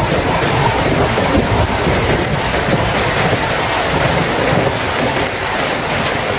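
Steady heavy rain with a dense low rumble underneath.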